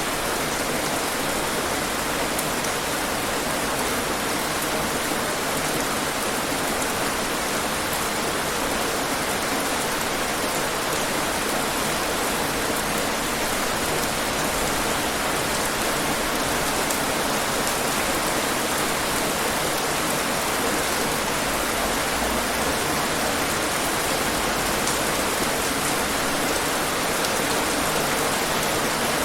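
Steady, heavy rain falling and pattering on hard surfaces.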